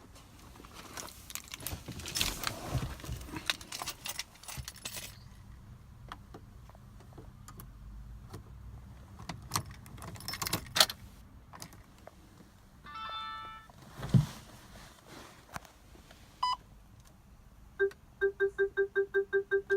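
Car warning chimes with the engine off. Clicks and key jangling come first, then a short chime about two-thirds of the way in, a single beep, and near the end a fast repeating chime, about eight pulses a second.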